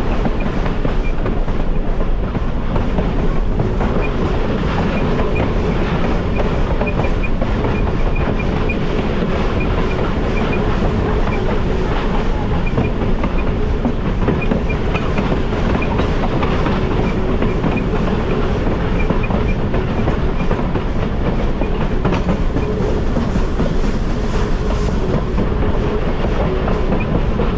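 Railway passenger car in motion, heard from aboard: a steady rumble of wheels on the rails with a constant hum and faint scattered clicks and rattles.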